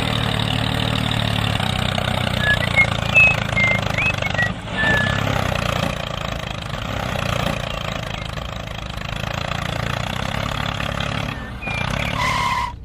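Small engine of a miniature DIY tractor running steadily, with a fast even chugging and a few short high chirps over it.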